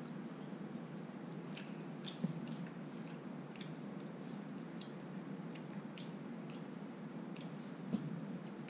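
A person chewing a mouthful of raw bonito sashimi: faint, irregular wet clicks and squelches from the mouth over a steady low room hum.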